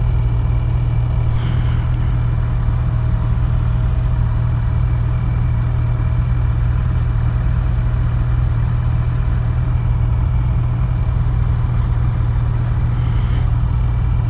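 Kawasaki Z900's inline-four engine running at a steady, unchanging note.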